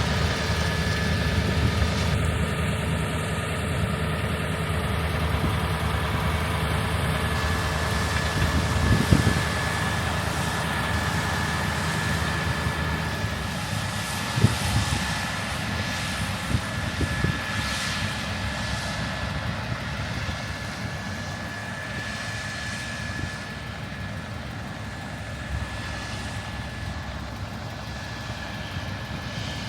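Heavy harvest-machinery diesel engine running steadily under a constant high whine. The low engine rumble fades about halfway through, and two sharp knocks come in the middle.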